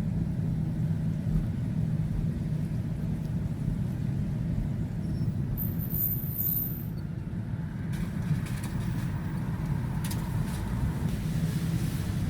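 Steady low hum of a car's engine and road noise heard from inside the cabin while driving.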